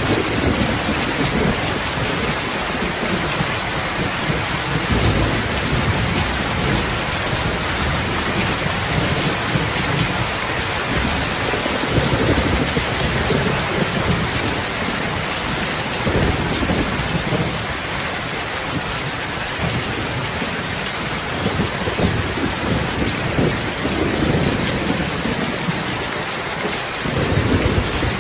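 Heavy rain falling steadily, with low rolling rumbles of thunder swelling and fading several times.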